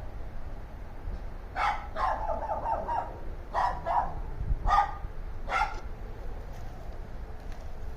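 Dogs barking, a run of about half a dozen sharp barks from about one and a half seconds in, with a fast cluster around the second mark; after about six seconds only faint barks remain.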